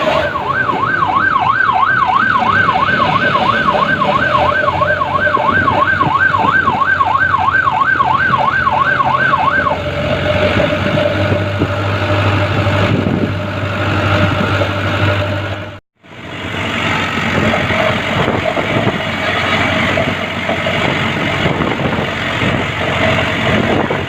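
A vehicle siren sounding a fast warble, about three rises and falls a second, over the running engine and road noise of a truck. The siren stops about ten seconds in, leaving the truck engine with a low steady drone. The sound drops out briefly a little past halfway.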